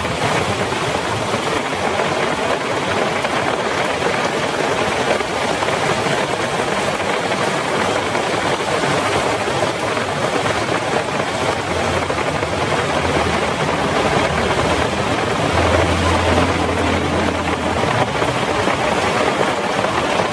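Heavy rain falling in a steady, dense hiss. From about twelve seconds in, a low engine hum rises under it for several seconds, strongest around sixteen seconds, then fades.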